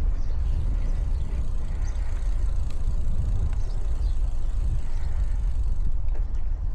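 Wind buffeting the microphone of a camera riding on a moving bicycle: a steady, uneven low rumble, with a few faint high chirps above it.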